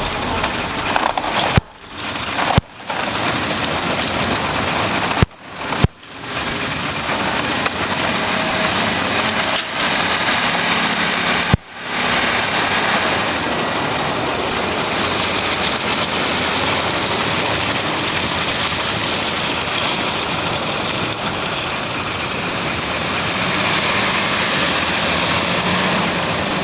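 Scania 480 log truck's engine running with a dense, noisy rush; the sound drops out abruptly for a moment several times in the first twelve seconds, then carries on steadily.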